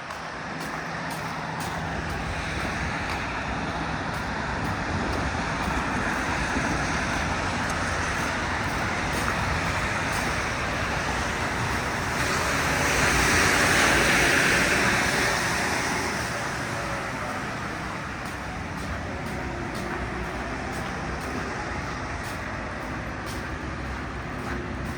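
Road traffic on a rain-wet street: a steady hiss of tyres on wet pavement over running engines, with one vehicle passing close and swelling to its loudest about fourteen seconds in.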